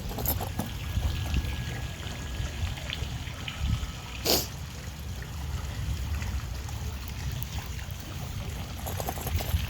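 Steady trickling water, with a short sharp noise about four seconds in.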